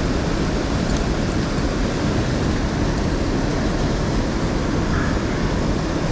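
Steady, even rushing noise of fast-flowing river water, with no change throughout.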